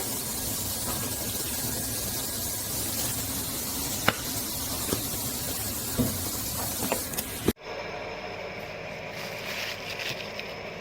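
A foldable stainless steel electric travel kettle heating water: a steady hiss with a few light clicks. The hiss stops abruptly about seven and a half seconds in, giving way to a quieter sound with faint steady tones.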